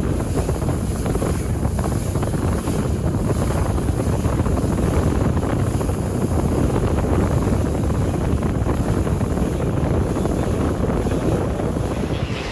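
Steady wind rushing over the microphone on a moving boat, over a continuous low rumble of the boat running through the water.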